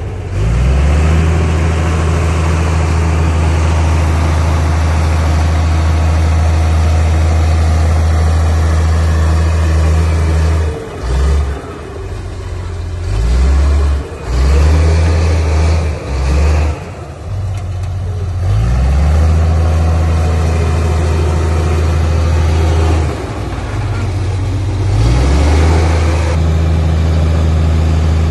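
Heavy diesel engine of an earthmoving machine running steadily at high revs. Several times midway, and once more near the end, it drops in pitch and then picks back up.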